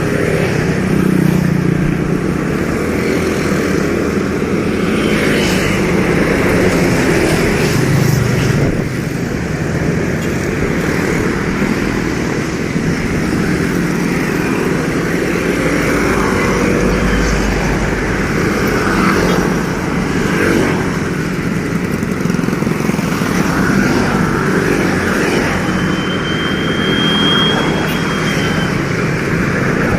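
Road traffic: motorcycle and other vehicle engines running past, with a hum that swells and fades a few times over a steady rushing noise.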